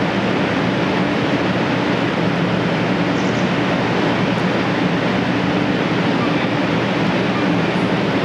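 Steady rumble of a Shinkansen train running close by, with a low, even hum under it.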